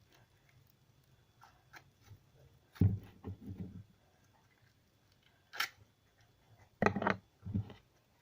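Slime being squeezed and handled: a few scattered soft thumps and squelches, the loudest about three seconds in and another pair near the end.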